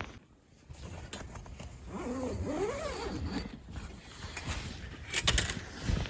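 An animal call with a wavering, bending pitch lasting about a second and a half, followed about two seconds later by a short, loud clatter.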